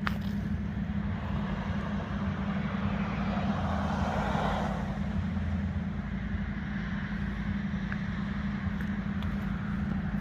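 Road traffic: a steady low hum of vehicles with one passing, swelling and fading about four seconds in.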